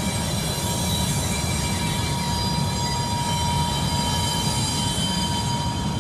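Freight train cars rolling past with a steady low rumble and a continuous high wheel squeal, holding several steady pitches.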